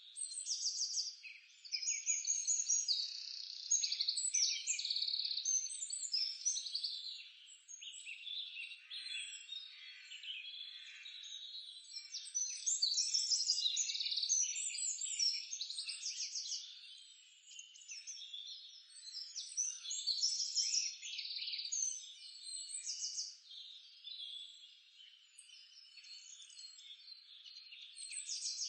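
Dense chorus of many small animals calling at once: overlapping high chirps and fast trills that swell and fade in waves, with no low sound under them.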